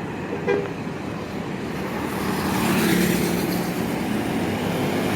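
A Scania K410 coach passes close by. Its engine and tyre noise swell to a peak about three seconds in and then ease slightly. There is a short sharp sound about half a second in.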